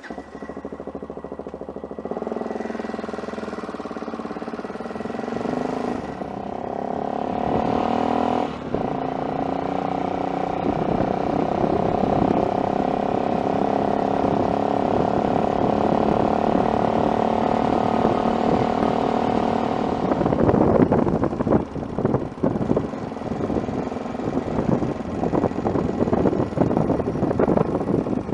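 Adventure motorcycle engine pulling away and rising in pitch through the gears, with a short break about eight seconds in, then running steadily at cruising speed. About twenty seconds in, a rougher, gusty rushing noise joins it.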